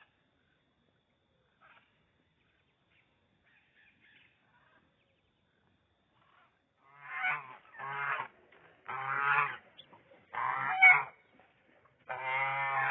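Goose honking: after a few seconds of near quiet, a run of about five loud, drawn-out honks starts about seven seconds in.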